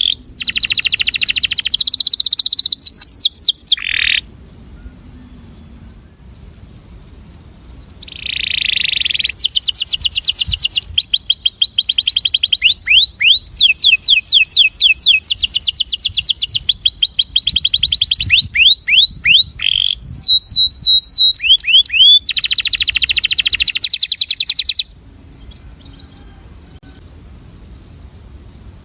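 Male canary singing in long phrases of fast trills, rapid runs of repeated high notes and sweeping whistles, with two pauses of a few seconds, one after the first phrase and one near the end.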